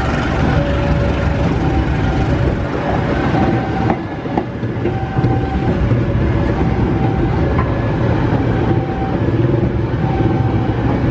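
Economy passenger coaches of a local train rolling past close by: a steady rumble of wheels on the rails, with a few clicks as the wheels cross the rail joints.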